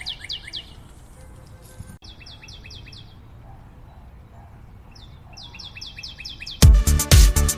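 Bird chirping in quick runs of falling notes, several a second, with pauses between the runs. Loud electronic dance music with a strong beat cuts in abruptly near the end.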